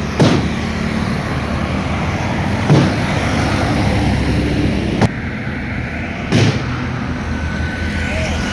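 Busy road traffic: heavy vehicle engines running steadily as they pass. Four loud thumps break through, spread a couple of seconds apart.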